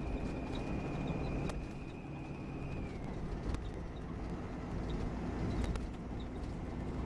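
Plaxton Elite Volvo B9R coach running with a low engine and road rumble and a thin, steady high squeak that drops slightly in pitch and fades about three seconds in, over a few sharp clicks and rattles.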